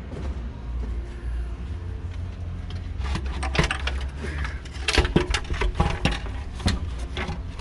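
Metal clicks, clinks and knocks of parts and hand tools being handled in the engine bay while the intake manifold is worked free, coming thick and irregular from about three seconds in, over a steady low hum.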